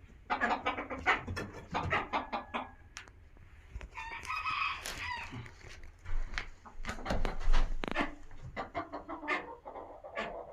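Phoenix chickens clucking in short repeated calls, with a rooster giving one short crow about four seconds in.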